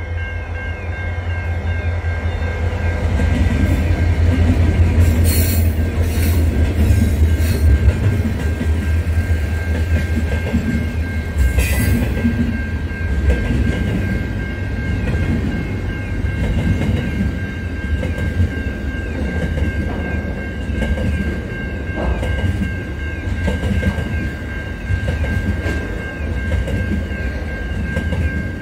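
Diesel freight train passing: a deep locomotive engine rumble, loudest for the first dozen seconds, then container wagons rolling by with wheel clatter and a steady high-pitched whine from the wheels.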